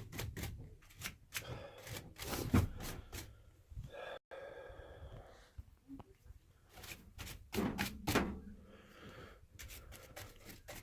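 Irregular knocks and scrapes of a small brush knocking caked snow off battery bank terminals, clearing the buildup before it melts and shorts the posts together.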